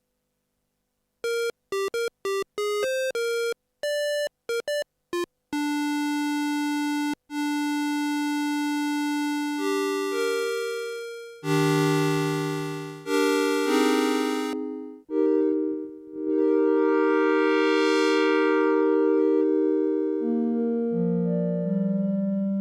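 TSynth polyphonic synthesizer (Teensy 4.1-based) playing: a quick run of short, clipped notes, then longer held notes and chords. Partway through, a held chord's tone grows steadily brighter and then duller again.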